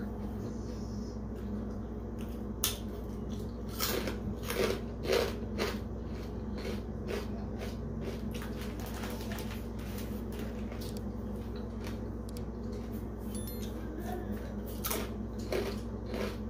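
A person eating: bites and chewing with short crisp clicks, a cluster about four to six seconds in and a few more near the end, over a steady low hum.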